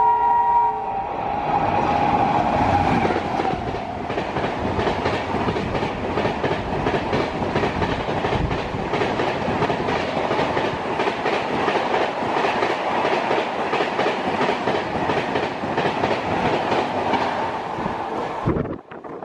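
An electric locomotive's horn sounds and ends in the first second, then a train of passenger coaches rushes past at speed with rapid wheel clatter over the rail joints. The sound cuts off abruptly near the end.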